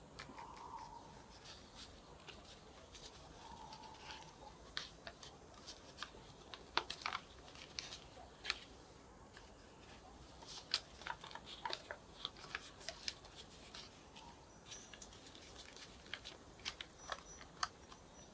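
A sheet of paper being handled and folded by hand: scattered soft crinkles and sharp creasing ticks, coming more often from about five seconds in.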